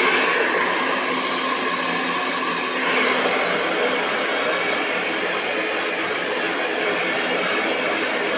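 Hair dryer blowing continuously: a steady rush of air over the hum of its motor, the tone shifting slightly about three seconds in.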